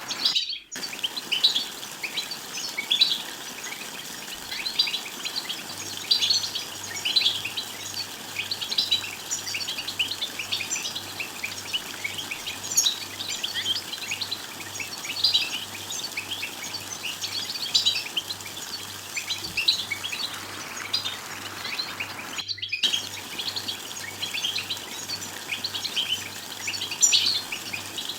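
European goldfinch chattering, a dense stream of quick high twittering chirps and short calls. The sound cuts out sharply for a moment twice, about half a second in and again around 22 seconds in.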